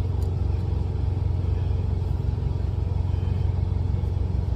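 Idling truck engine: a steady low hum.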